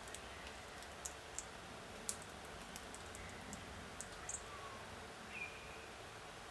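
Faint, irregular sharp clicks from a male Australian king parrot handling and cracking its food with its beak while feeding. A few short, faint bird notes are heard, the clearest about five seconds in.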